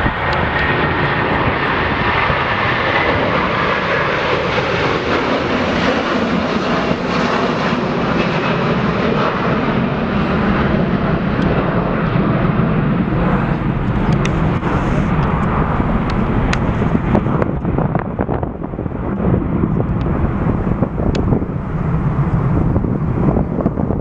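Jet airliner engines running loud and steady as the aircraft passes close by. A faint high whine can be heard at first. Over the second half the sound loses its hiss and grows duller as the aircraft moves away.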